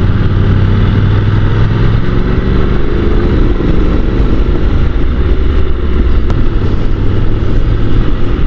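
Motorcycle engine running steadily on the move, a low constant drone with a rush of noise over it, heard from the rider's bike.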